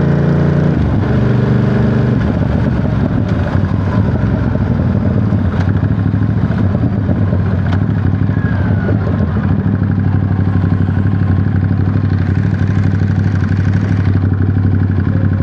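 Ducati Monster 937's L-twin engine running. Its note drops in steps over the first two seconds as the bike slows, then holds a steady low beat.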